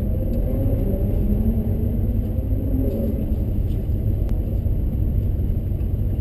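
Seat Ibiza FR's 1.8-litre turbocharged four-cylinder engine running, heard from inside the cabin as a steady low rumble.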